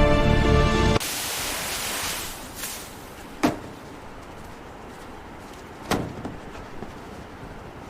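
Music cuts off about a second in, leaving a hiss that fades over the next second. Then two sharp knocks come about two and a half seconds apart over a faint steady hiss.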